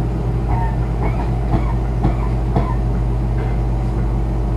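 Car engine idling steadily, a constant low hum, with faint voices in the background partway through.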